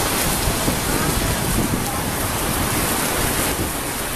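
Heavy rain pouring onto a flooded street and pavement: a steady, dense hiss.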